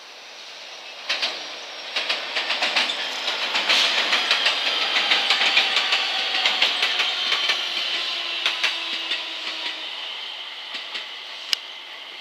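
JR West 227 series 'Red Wing' three-car electric train passing, its wheels clacking over rail joints. The sound swells from about a second in, is loudest mid-way and fades toward the end, with one sharp click near the end.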